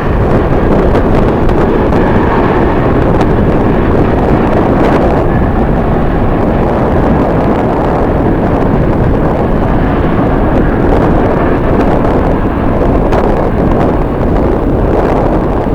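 Jet airliner engines running loud and steady as an aircraft passes the observation deck. Strong wind buffets the microphone throughout.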